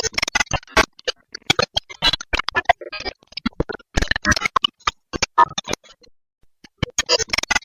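Irregular bursts of sharp plastic clicking and rattling, with a pause about six seconds in: zip ties being pulled tight and handled while the doll is fastened on.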